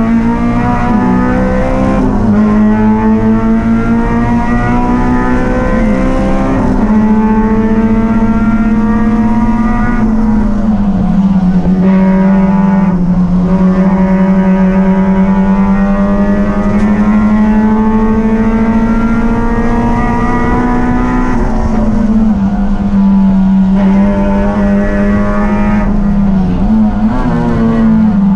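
Race car engine running hard at high revs, its pitch held high with a few slow dips and rises as the throttle eases and opens again.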